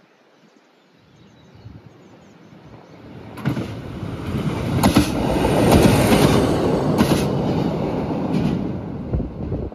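Arriva class 845 diesel railcar approaching and passing close by: its running noise and the rumble of its wheels on the rails grow louder over several seconds, with a few sharp wheel clacks on the track.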